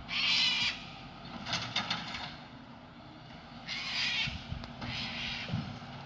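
Garbage truck engine running low and steady, with four short hissing bursts of released air, about a second or so apart.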